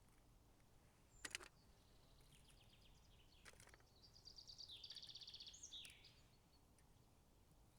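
Faint forest birdsong: a small bird's rapid, high chirping trill that swells in the middle and fades out about six seconds in. Two brief sharp clicks, one about a second in and another a few seconds later.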